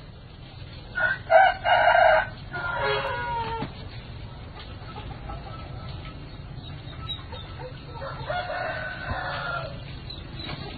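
A rooster crowing twice: a loud crow about a second in, ending in a falling drawn-out tail, and a fainter second crow near the end.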